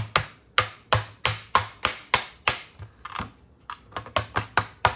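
A small hammer tapping repeatedly on the RC car's motor and mount, about three to four sharp taps a second and a little quicker near the end, to drive out a motor that is seated very tight.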